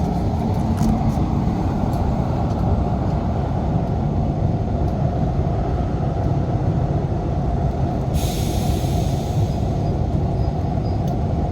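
Steady low rumbling of a lit downdraft wood stove drawing hard, with a brief hiss about eight seconds in.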